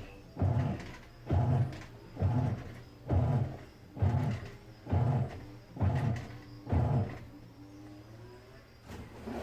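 Midea Wave-Agitator top-load washing machine's motor turning the agitator in short bursts, about one a second, eight times: the automatic load-sensing step with which the machine sets its own water level. Right at the end water begins to run into the tub.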